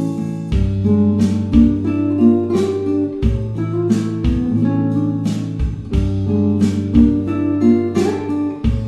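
Acoustic guitar music: plucked notes and strummed chords over low bass notes.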